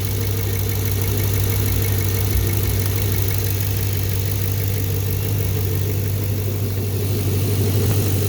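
2014 Chevrolet Camaro engine idling steadily with a lifter tick, which the owner traced to a bad lifter.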